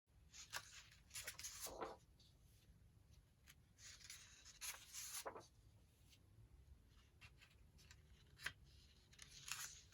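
Faint rustling of sheets of printed paper being handled and leafed through: several short sliding swishes and a few light ticks, over a steady low hum.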